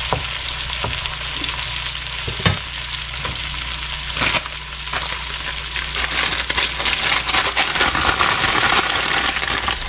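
Chicken drumsticks sizzling and crackling in hot oil in a wok, with onion and garlic. A wooden spatula knocks and scrapes against the pan a few times in the first half.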